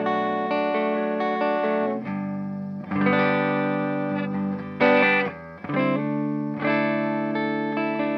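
A 1997 Korean-made Epiphone Les Paul Custom electric guitar played through an amp and cabinet: chords struck and left to ring, a new chord every one to two seconds, with a short, sharp chord about five seconds in.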